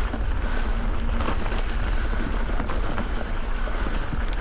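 Wind rumbling on the microphone, steady and loud, with a few faint clicks and rattles.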